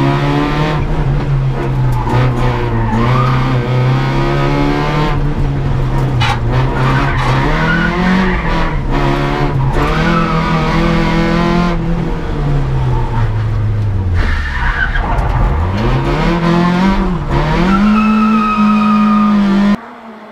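Citroën Saxo VTS rally car's four-cylinder petrol engine heard from inside the cabin, driven hard: the revs climb and fall again and again through gear changes and braking, with a deep drop and climb back in the last third. Near the end the sound suddenly becomes much quieter.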